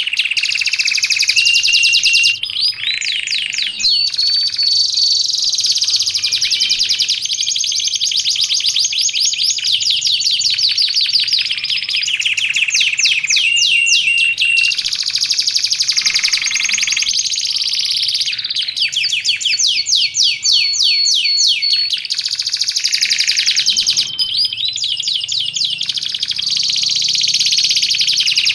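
Canary singing continuously: fast trills and rolls of repeated notes, broken by a few held whistled notes.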